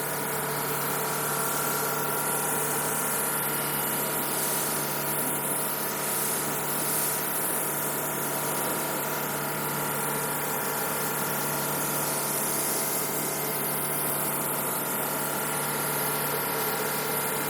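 Steady mechanical hum and hiss of a running machine, with fixed tones and no change in speed.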